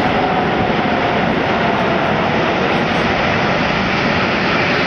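Airbus A380's four jet engines running loud and steady in a display flight: a broad rush of noise with a faint whine that slowly falls in pitch.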